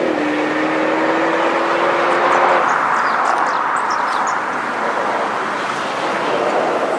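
BMW 428i's turbocharged four-cylinder engine running through a Remus sport exhaust, holding a steady note for about two and a half seconds, then the engine note fades into a steady rushing noise.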